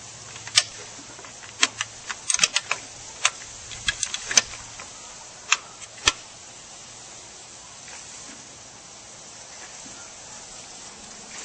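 Swimming-pool water sloshing after an earthquake: a steady hiss with a run of sharp clicks and ticks over the first six seconds or so.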